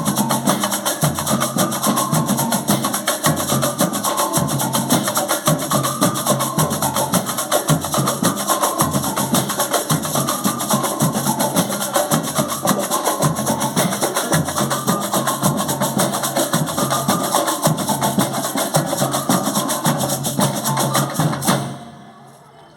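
Live band rehearsing a percussion-driven piece: a dense, fast rhythm of sharp wooden-sounding strikes and drums with pitched notes over it, stopping abruptly near the end.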